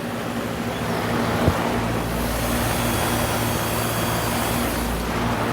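Outdoor air-conditioning condensing units running: a steady fan and compressor hum under a broad rushing noise that grows louder about two seconds in. There is a single sharp click about a second and a half in.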